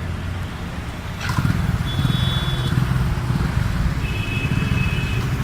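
Street traffic with a car's engine rumbling low, getting louder about a second in, with brief high horn-like tones over it.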